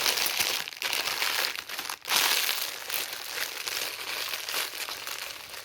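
Plastic packaging crinkling in bursts as it is pulled and wrestled with. The wrapping is stubborn and hard to get off.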